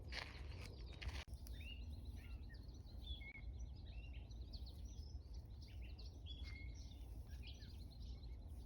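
Several birds chirping and calling in many short, overlapping notes over a steady low rumble. There are a few brief noisy rustles in the first second or so.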